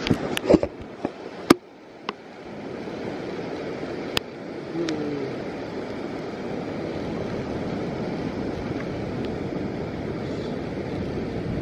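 A steady rushing of wind and water, with a cluster of sharp knocks and clicks in the first two seconds.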